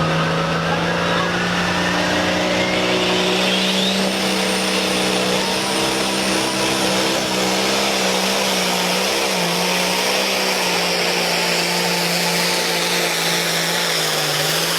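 International Harvester pulling tractor engine held at high revs under load as it pulls the sled, a steady loud drone at nearly constant pitch. A whistle rises in pitch over the first few seconds, and the engine note dips briefly about nine seconds in.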